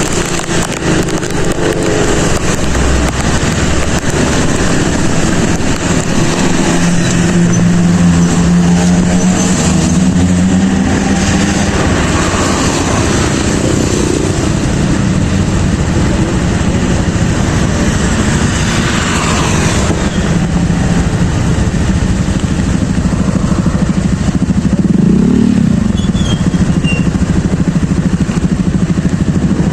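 Motorcycle engine running under way, its pitch rising and falling with the throttle, under a steady loud rush of wind and road noise.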